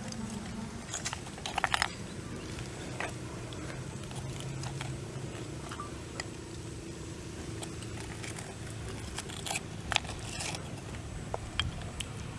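Person eating snails: scattered crunches and sharp clicks, with a quick run of clicks about one and a half seconds in and a sharp click near ten seconds.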